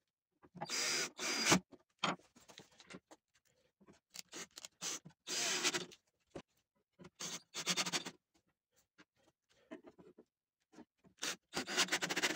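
Hand rubbing strokes on a wooden chair, an irregular run of short bursts, each under a second, with pauses between.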